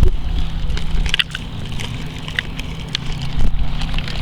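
A steady low mechanical hum, like an engine running, with rumble underneath and a few short sharp clicks.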